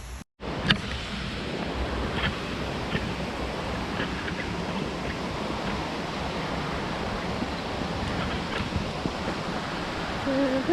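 Waterfall: a steady rush of falling water, after a brief dropout and a click near the start.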